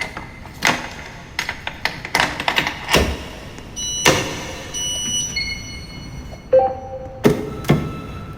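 A subway car makes irregular knocks and metallic clanks, several of them leaving short ringing squeals, as it stands at its terminal.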